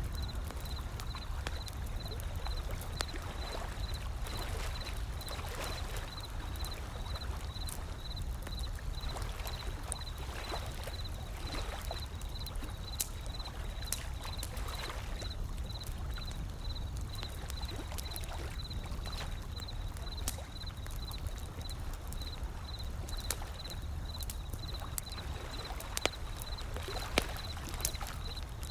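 Wood fire crackling with scattered sharp pops over a steady low rumble of ocean waves washing in. A faint, evenly pulsing high tone repeats about twice a second.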